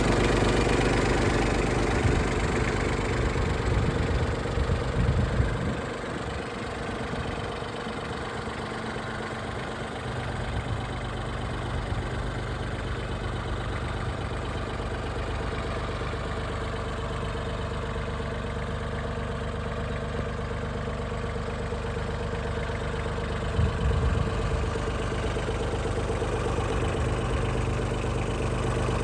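Yanmar AC21 crawler tractor's three-cylinder diesel engine running steadily. It is louder for the first few seconds, drops in level about five seconds in, and builds again near the end.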